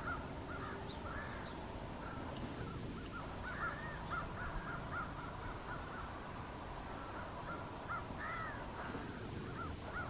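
Wild birds calling: a long run of short, arched calls repeated in quick series, at times several a second, with a faint steady tone beneath.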